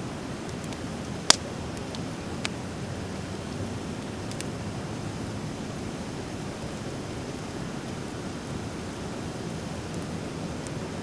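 Driftwood fire crackling: one loud sharp pop about a second in and a smaller one about a second later, over a steady rushing hiss.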